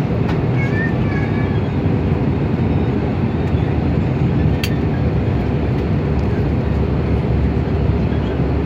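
Airbus A320neo cabin noise from a seat ahead of the wing: a steady, loud low rumble of the engines and airflow around the fuselage. A single sharp click sounds about halfway through.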